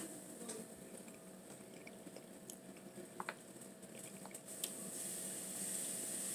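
Quiet eating sounds: chewing with a few small, sharp clicks and smacks scattered through it, over a faint steady hum.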